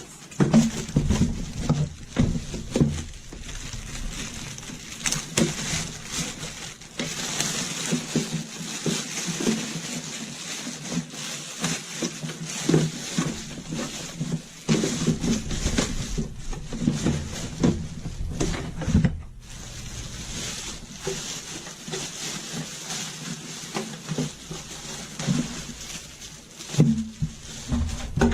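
Water running and sloshing, with frequent knocks and clatter of hard objects being handled.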